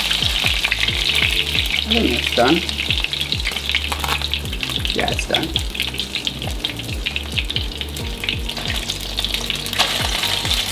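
Panko-breaded fish fillets shallow-frying in oil in a nonstick pan: a steady, loud sizzle, with a spatula moving and lifting the pieces out.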